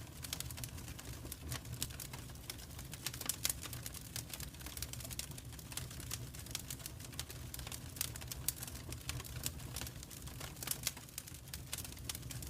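Wood fire crackling in a fireplace: irregular sharp snaps and pops, a few louder ones, over a steady low rumble.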